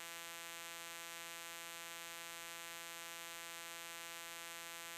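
Faint, perfectly steady electrical hum with a ladder of evenly spaced overtones, the kind picked up on an aircraft's intercom or headset audio feed.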